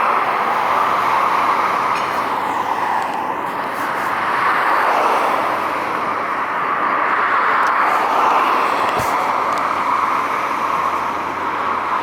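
Steady rushing noise of road traffic, swelling and easing slowly as vehicles pass.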